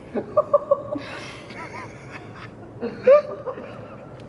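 Young men laughing: a quick run of short pitched laughs about half a second in, then breathier laughter and another burst about three seconds in.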